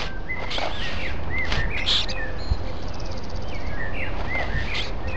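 Outdoor ambience of wild birds chirping and singing: short, rising and falling whistled calls that overlap, with a fast rattling trill a little past three seconds in, over a steady low rumble.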